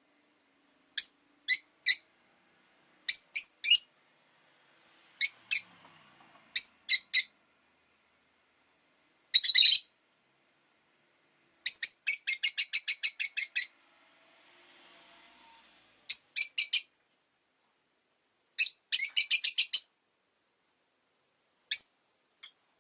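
Rosy-faced lovebirds chirping: sharp, high chirps in short clusters of two or three, with a fast run of about ten chirps around the middle.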